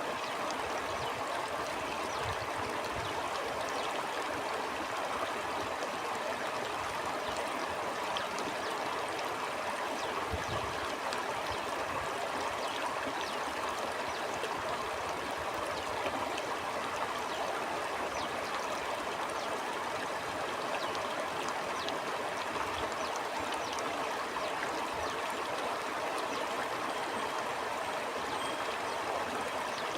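Stream flowing steadily: an even rush of water with small trickles and splashes throughout.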